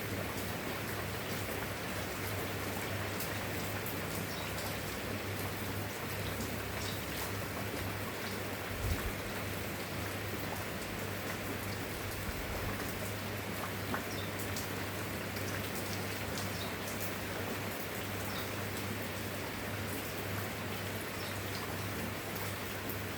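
Steady rain falling, with many separate drop ticks over an even hiss, and a constant low hum underneath; a brief low thump about nine seconds in.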